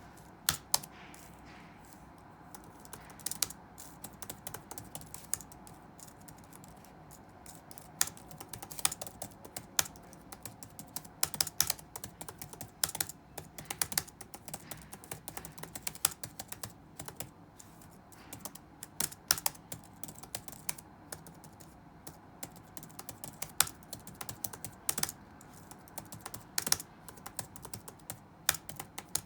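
Touch-typing on a computer keyboard: scattered single keystrokes for the first several seconds, then fast irregular runs of key clicks with short pauses between them.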